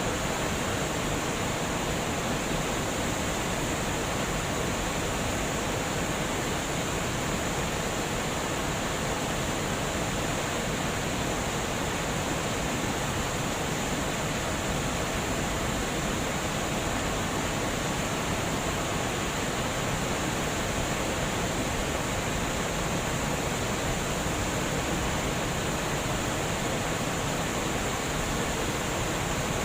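Water flowing steadily over a dam, an even, unbroken rush with no change in level.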